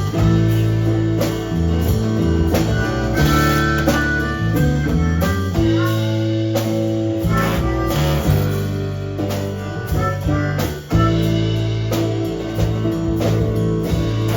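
Blues band playing an instrumental passage led by guitar, with drums.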